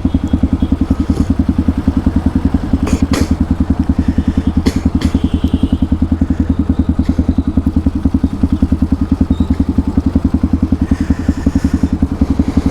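Hero XPulse 200 4V single-cylinder engine running steadily through an aftermarket Akrapovic exhaust, a fast, even train of deep exhaust pulses. A few short clicks sound about three and five seconds in.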